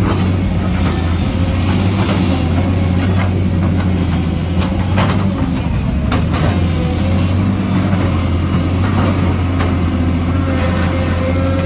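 Heavy diesel engine of an excavator running steadily, with scattered sharp knocks and clanks from the machine working on rock and earth.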